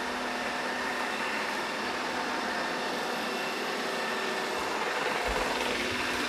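Narwal Freo Z Ultra robot vacuum and mop running, a steady whir with a low hum. There is a soft low thump about five seconds in.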